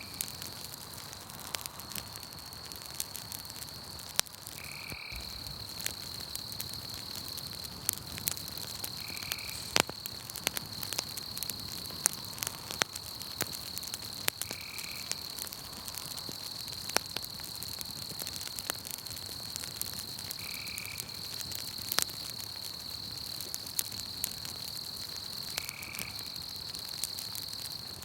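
Campfire crackling with frequent sharp pops, over a steady high-pitched night insect chorus. A short chirping call repeats about every five seconds.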